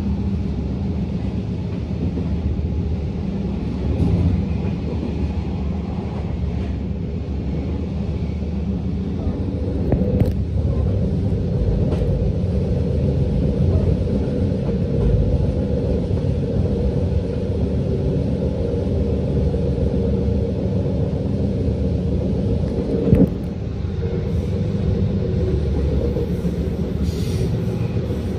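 Moving passenger train heard from inside the carriage: a steady low rumble of wheels running on the rails, with a few light clicks and one sharper knock late on.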